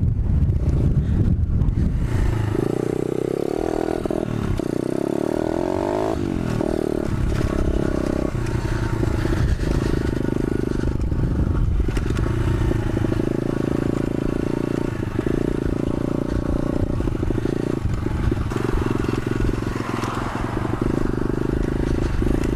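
125cc pit bike engine running as the bike is ridden, its pitch stepping up and down as the throttle changes.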